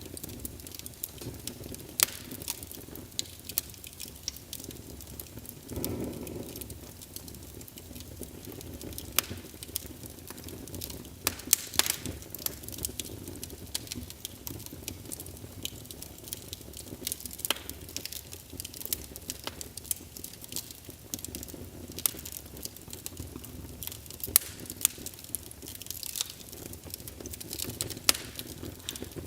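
Wood fire burning in a fireplace: irregular sharp crackles and pops over a low steady rush of flame, with a brief low rumble about six seconds in.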